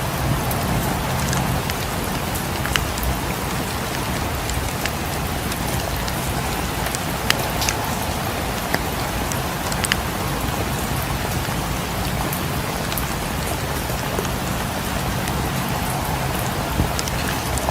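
Steady rain falling against windows, with a dozen or so scattered sharp clicks and pops through it.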